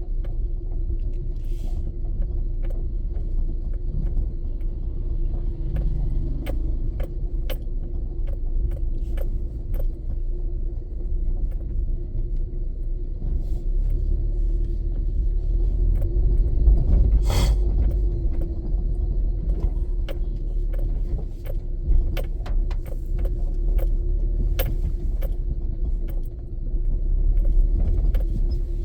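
A motor vehicle driving, heard from inside: a steady low road rumble and hum, with frequent small clicks and rattles and one louder knock about halfway through.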